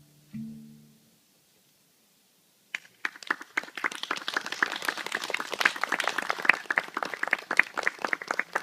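The last plucked acoustic guitar notes ring and fade within the first second, then after a short silence a small audience breaks into clapping, the individual claps distinct and fast.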